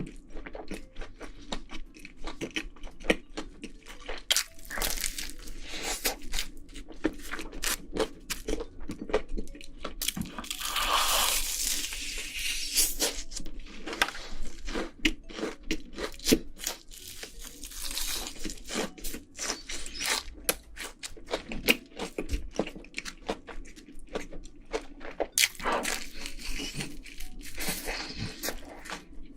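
Close-miked chewing of a big mouthful of pizza, with wet squelching and crunchy crackles throughout. A louder, noisier stretch comes about ten to thirteen seconds in.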